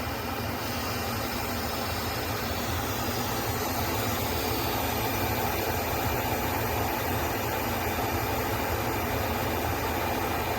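Instant Pot pressure cooker venting steam through its open release valve, a steady hiss during a quick pressure release.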